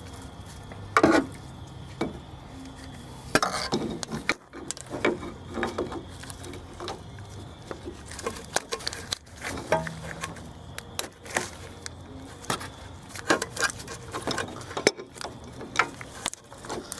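Irregular metallic clinks, taps and knocks of hand tools working on engine oil-line fittings, some loud, over a faint steady hum.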